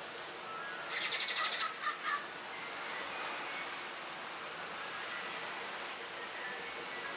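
Wild birds calling: a fast rattle of clicks about a second in and a few short chirps, then a thin high note repeated evenly about ten times over three and a half seconds, over a steady outdoor hiss.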